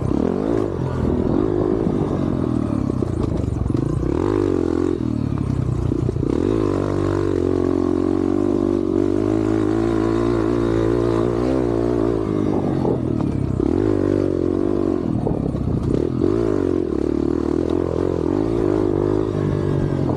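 Yamaha TT-R125 dirt bike's single-cylinder four-stroke engine under hard riding, its revs climbing and dropping again and again as the bike accelerates and backs off around the lap.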